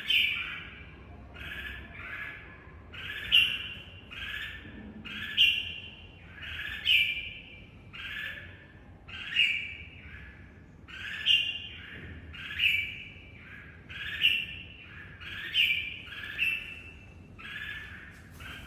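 Red-whiskered bulbul giving a long series of harsh, squawking calls, roughly one a second, each rising and falling briefly.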